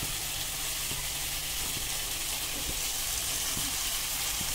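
Vegetable masala sizzling steadily in a hot frying pan, with a few faint clicks.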